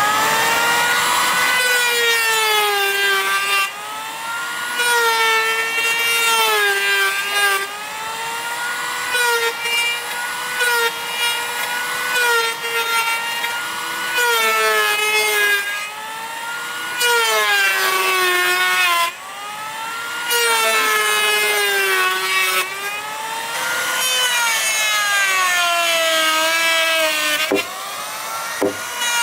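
Power tool cutting wood, its motor running hard with a high whine that sags in pitch each time it bites into the wood and climbs back as the load eases. It cuts out briefly a few times.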